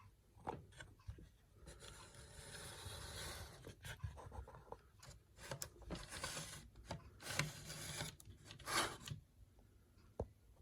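Irregular rubbing and scraping sounds, several longer swishes between about 2 and 9 seconds in, with a few sharp clicks among them.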